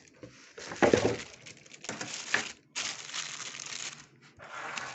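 Crinkling and rustling handling noise as the parts of a microphone kit are handled, with the loudest rustle about a second in.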